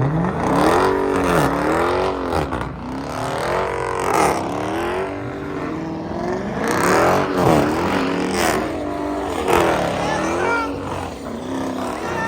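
V8 muscle car engine revved over and over, its pitch climbing and dropping again every second or two.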